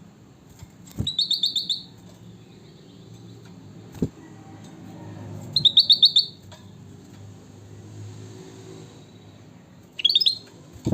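Kutilang batik, a bulbul kept as a songbird, giving three short bursts of quick repeated chirps, about a second in, midway and near the end. A couple of sharp clicks fall between the bursts over a faint low hum.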